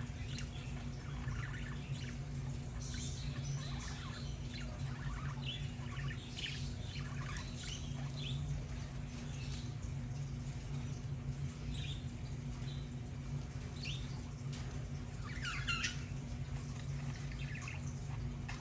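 Budgerigars chirping and chattering in short, scattered calls over a steady low hum.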